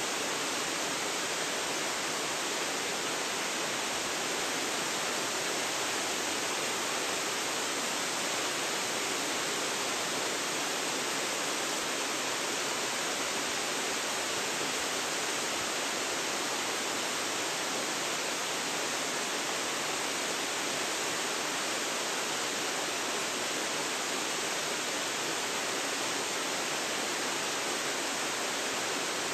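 Waterfall pouring steadily, a constant rushing hiss of falling water.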